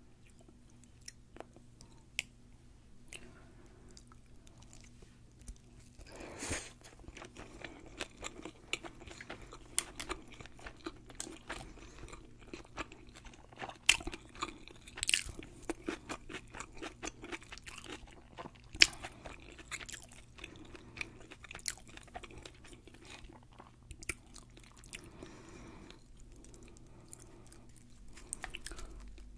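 Close-miked crunching and chewing of a deep-fried sushi roll with a crisp batter crust: a few scattered clicks at first, then dense crisp crackles from about six seconds in, easing off near the end.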